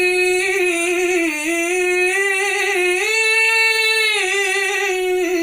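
A man singing one long, drawn-out melismatic line of an Arabic syair, the pitch wavering, then stepping up about three seconds in to a held higher note before falling back near the end. No instrument is heard beside the voice.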